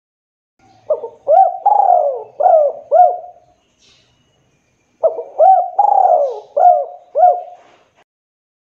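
Spotted dove cooing: two phrases of about five short coos each, with a pause of over a second between them.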